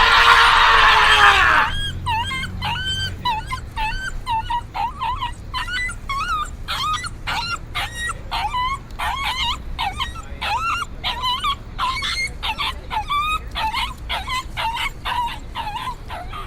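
A dog whimpering and yipping over and over in short, high, wavering calls, about two a second. Before that, a loud held cry cuts off at about two seconds in.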